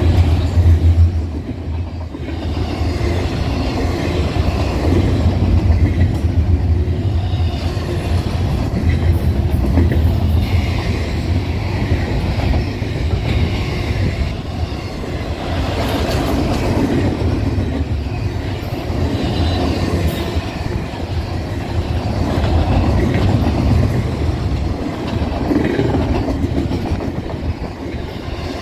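Double-stack intermodal container well cars of a fast freight train rolling past close by: a steady low rumble of steel wheels on the rails.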